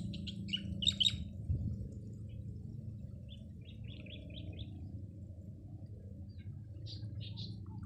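Small birds chirping in quick runs of short, high notes, in three bouts: one at the start, one around the middle and one near the end, over a steady low background rumble.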